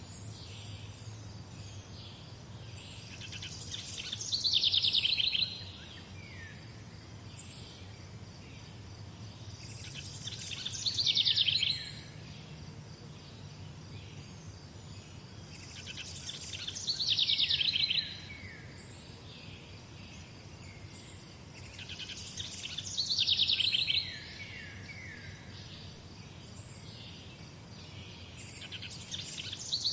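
A songbird singing the same short song about every six seconds, five times: a fast high trill ending in a few falling notes. A steady low hum sits underneath.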